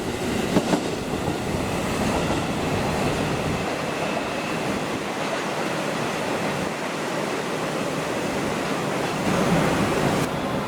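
Freight train rolling past: a steady rumble of wagons on the rails, with a few wheel clacks over rail joints in the first second.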